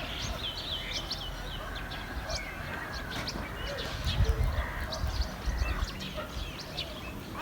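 Chicks peeping: many short, high chirps, one after another. A few low thuds come about four to six seconds in.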